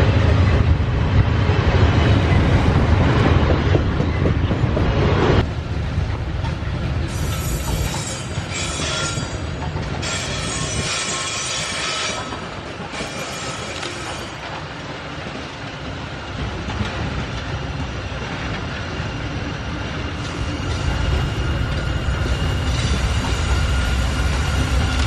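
Train rolling past on the rails, its wagons' wheels clattering and squealing. A heavy rumble drops off suddenly about five seconds in, and builds again near the end.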